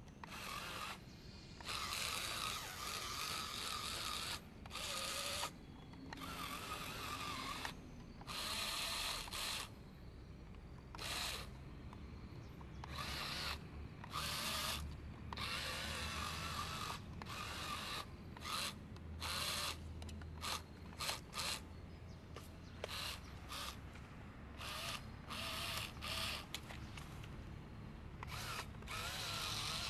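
Small electric geared motor of a wooden model truck, whirring and grinding through its gears in repeated spurts of a second or two, stopping and starting again, with a few quick short bursts about two-thirds of the way through.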